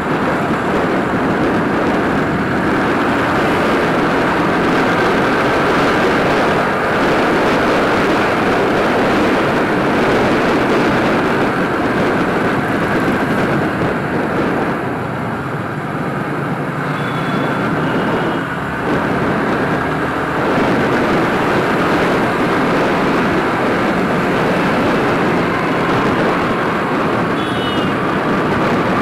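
A Yamaha R15 V3's 155 cc single-cylinder engine running while the bike is ridden at road speed, mixed with a steady rush of road noise. The sound eases slightly about halfway through, then picks up again.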